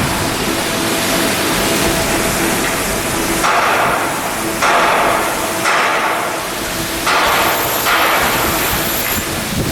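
Steel hull construction work: hammering on steel amid loud, continuous noise, the sound shifting abruptly several times.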